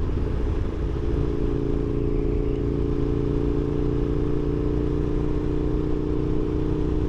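Aprilia RSV1000 motorcycle engine running at steady revs while riding, its note holding level with no rise or fall.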